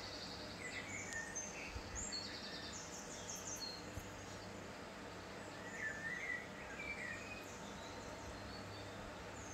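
Faint birds chirping and calling, in short high notes and quick trills scattered throughout, over steady low background noise.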